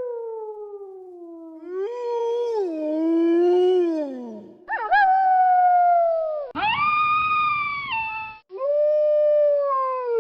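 Wolves howling: about five long howls one after another, most gliding down in pitch, one near the middle rising sharply and held high before breaking off.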